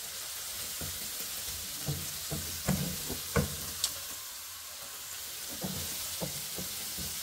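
Biryani masala of tomatoes, spices and salt frying in a pot with a steady sizzle while it is stirred, the stirring spoon knocking against the pot several times.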